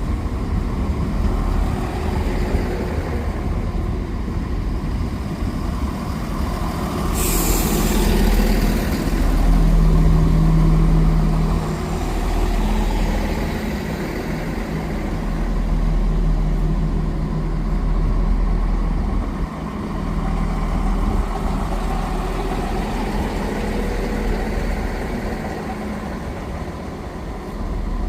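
A diesel train's engine running, with a short sharp hiss of released air about seven seconds in. The engine note grows louder for a few seconds around ten seconds in, then eases.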